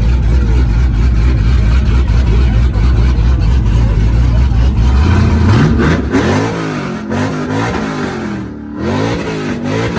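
Truck engine running with a loud, deep, steady rumble, then about halfway through revved up and let down again several times, about once a second.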